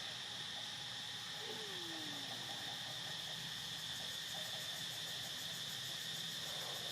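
Insects chirring in a steady high drone. About one and a half seconds in, a single short low call slides down in pitch.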